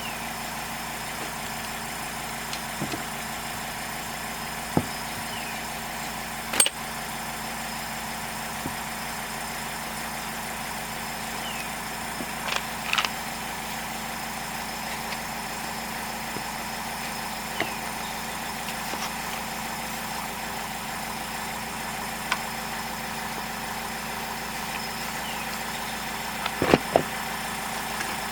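Poulan P3816 chainsaw's two-stroke engine running steadily at idle, with several sharp knocks or clicks over it at scattered moments.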